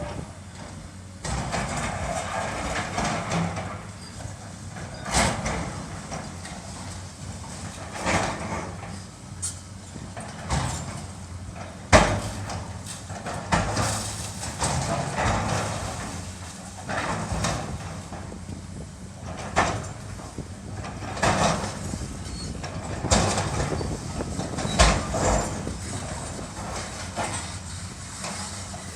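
Building demolition: heavy machinery's engine running steadily under repeated crunching, scraping and sharp crashes of breaking material and falling debris, the loudest crash about twelve seconds in.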